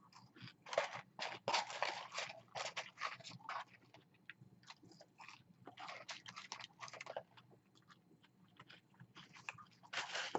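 A person chewing fast-food mouthfuls close to the microphone: crunchy chewing in three spells of quick crackling strokes, the last spell loudest near the end.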